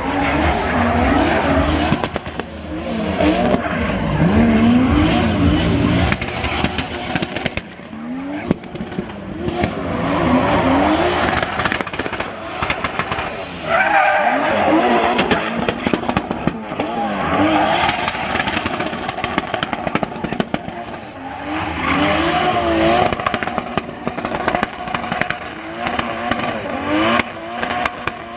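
Drift cars at speed: engines revving up and falling back over and over as the cars slide, with tyre squeal.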